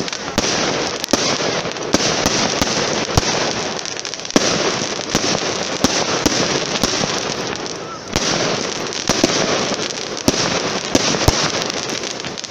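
Fireworks going off: a dense crackle of many small pops, with sharper bangs scattered through it, swelling up again about four and eight seconds in.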